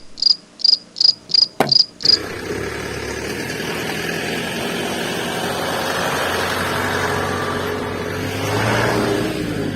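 High, regular chirping like a cricket, about three chirps a second, cuts off suddenly about two seconds in. A steady mechanical running sound with a low hum takes over, like a small motor running.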